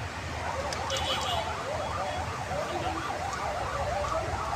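Passenger train coaches rolling past with a steady low rumble, under a wavering whine that rises and falls quickly and without a break.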